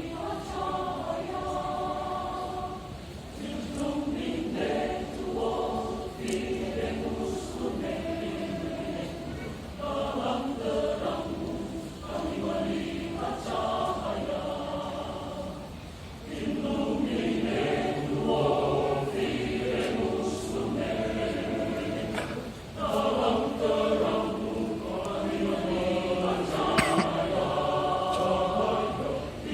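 A choir singing a hymn in long sustained phrases, with short pauses for breath between them.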